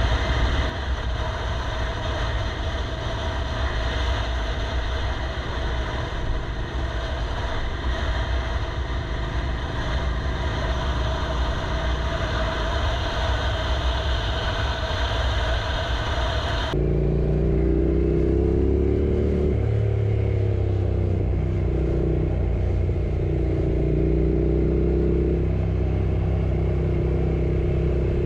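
Yamaha R6 inline-four sport bike running while ridden, with wind noise rushing across the GoPro's microphone. About two-thirds of the way through the sound changes abruptly: the wind noise mostly drops away and the engine note comes through clearly, rising and falling with the throttle.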